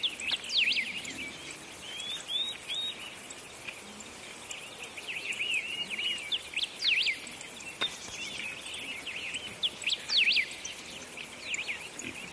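Birds chirping and singing, a string of quick rising and falling calls that keep going with short gaps.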